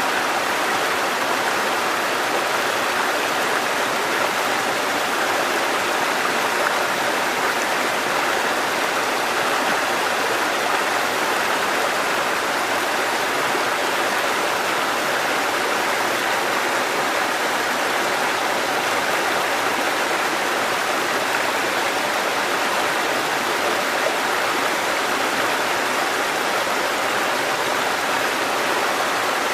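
Mountain stream water cascading over rocks, a steady, unbroken rushing.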